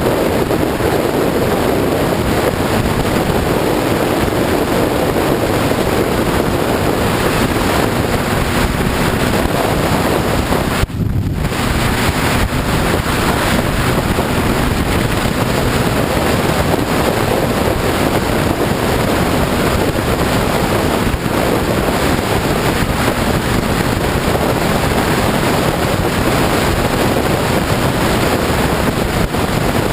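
Heavy wind buffeting the microphone of a motorcycle at road speed, a steady rushing roar that buries the engine sound. The noise dips briefly about eleven seconds in.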